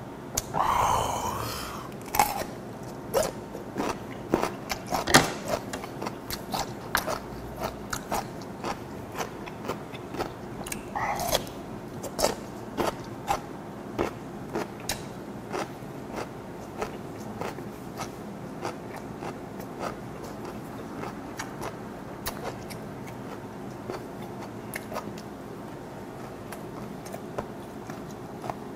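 Close-miked chewing of crunchy radish kimchi and fermented skate, with many sharp crunches and wet chewing clicks that come thick in the first half and grow sparser later. A short vocal sound about a second in, and another briefly near the middle.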